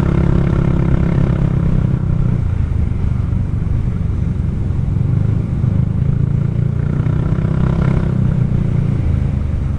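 Kymco Xciting 400i maxi-scooter's single-cylinder engine running at a steady cruise, a low drone under a rough rumble of wind and road noise.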